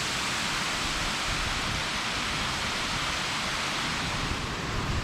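Steady rushing of a small waterfall, with wind buffeting the microphone in the low end, stronger near the end.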